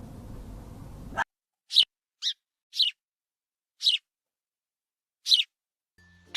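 Steady background noise that cuts off abruptly about a second in, followed by five short, high, downslurred bird calls at irregular gaps with silence between them.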